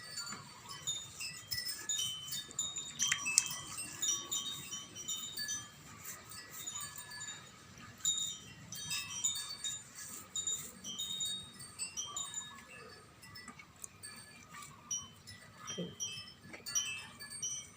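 Wind chimes tinkling, many short ringing tones at different pitches, with one sharp tap about three seconds in.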